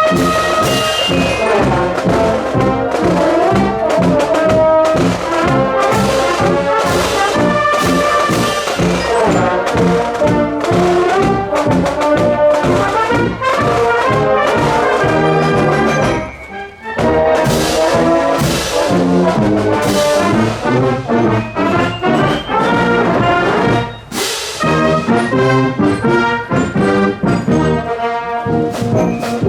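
High school marching band playing brass music on parade: trombones, trumpets and horns over a steady beat. The music breaks off briefly twice, about halfway through and again a little later.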